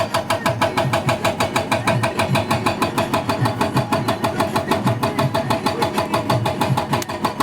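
Excavator-mounted Dozco hydraulic breaker hammering on stone, a rapid, even train of sharp blows at about eight a second over the excavator's engine.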